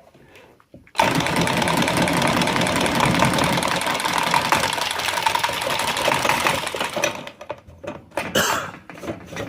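A power tool runs steadily for about six seconds, starting abruptly a second in and stopping sharply, with a steady high hum running through it; it is most likely cutting free the coupling on the burst copper pipe.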